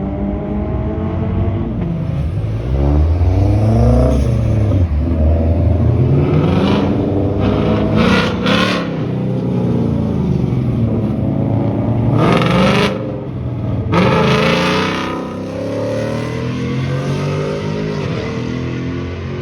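Cars accelerating hard one after another, engines revving up and falling back repeatedly, with several short hissing bursts in between.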